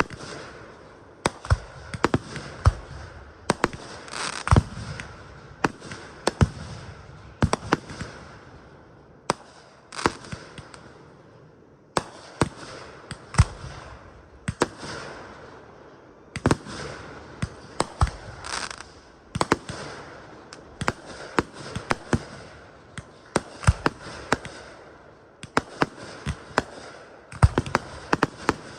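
Fireworks display: a continuous run of sharp shell bursts, about one a second and sometimes two close together, each trailing off in a fading crackle and rumble.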